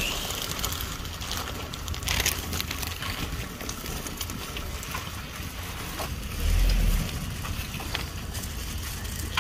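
Wind buffeting the microphone: a low rumble that rises into a strong gust about six and a half seconds in, with scattered light clicks and knocks.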